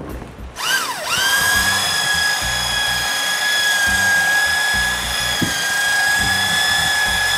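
Electric drill mixing colored epoxy resin in a bucket: it spins up about a second in, then runs at a steady high whine. Background music underneath.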